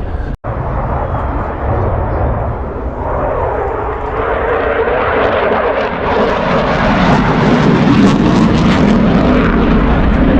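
Aircraft engine noise without words, swelling louder through the second half as the aircraft comes closer.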